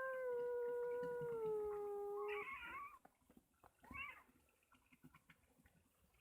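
A cat meowing: one long, drawn-out meow held nearly level and sagging slightly in pitch, then at once a shorter, higher, wavering meow, and another short meow about a second later.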